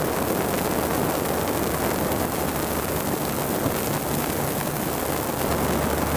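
Steady roar of aircraft engine noise mixed with rushing wind, with a low, even drone beneath it.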